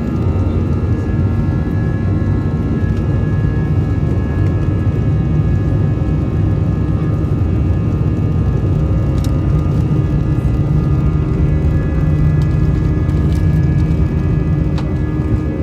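Airbus A319 jet engines running at high power, heard inside the cabin: a steady, loud rumble with several steady whining tones above it.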